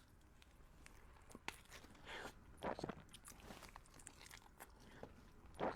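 Close-miked mouth sounds of someone biting into and chewing a burrito: soft, irregular clicks and wet smacks, a little louder about halfway through and again near the end.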